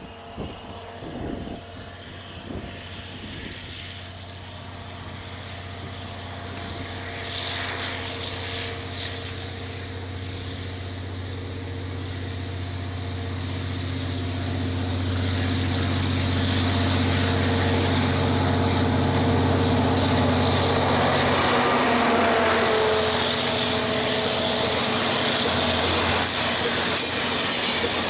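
Diesel locomotive of a Taiwan Railway freight train approaching, its engine drone growing steadily louder, then passing about 22 seconds in. The rumble of the loaded flatcars rolling by follows, with a brief squealing whine from the wheels.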